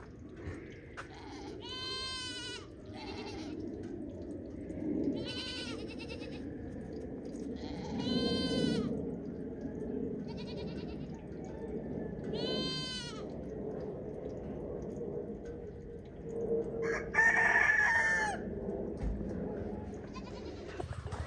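Goats bleating again and again, one short call every few seconds, and a louder, longer rooster crow about 17 seconds in, over a steady low background noise.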